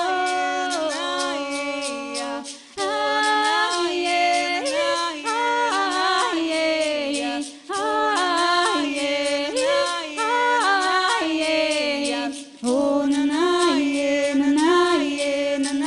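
Voices singing a wordless, chant-like melody in phrases of about five seconds, over a steady percussion beat of about four light strokes a second.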